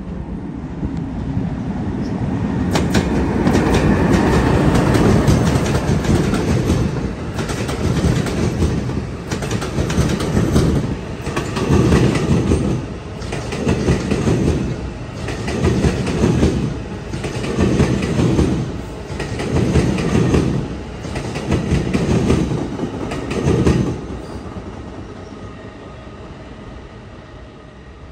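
A passenger train passing on the tracks: a rising rumble, then the wheels clattering over the rail joints in a regular beat about every two seconds as each car goes by, fading away near the end.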